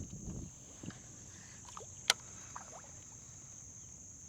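A single sharp click or knock about two seconds in, over a steady high-pitched whine and faint outdoor noise. A low rumble fades out about half a second in.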